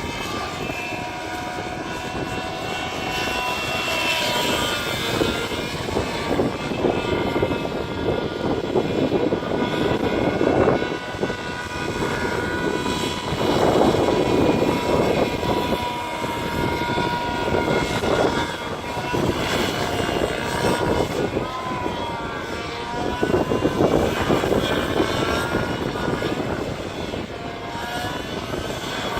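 Nitro engine and rotors of an SAB Black Nitro 3D RC helicopter in flight, a high steady engine tone that rises and falls in pitch as it manoeuvres. Rushing noise swells up several times.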